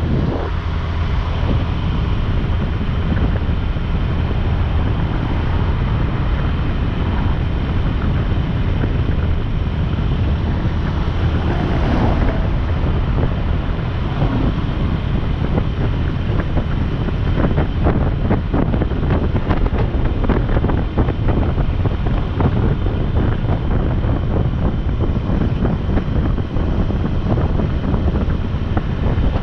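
Wind buffeting the microphone of a moving motorcycle over a steady low drone of engine and road noise. The buffeting gets choppier in the second half.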